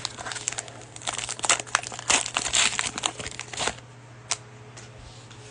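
Cellophane wrapper of a trading-card cello pack crinkling as it is torn open and pulled off: a dense run of crackles for about three and a half seconds, then one last tick.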